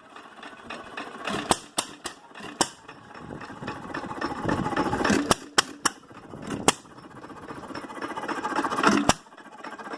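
Hit-and-miss stationary engine running, a sharp bang each time it fires, the shots coming in irregular groups with quieter coasting stretches between them.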